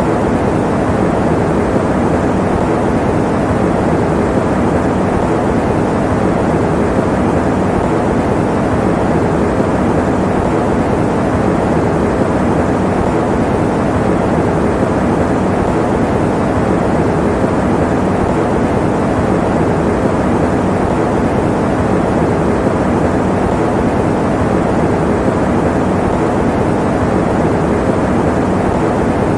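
Electric fan running with a steady, unchanging noise that is full in the low and middle range and muffled, with little treble.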